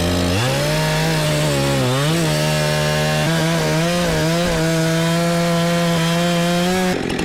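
Wood-Mizer LT35 portable sawmill running at full throttle, its band blade sawing through a knotty white pine log. The engine pitch sags and recovers about two seconds in, then holds steady until the sound cuts off abruptly near the end.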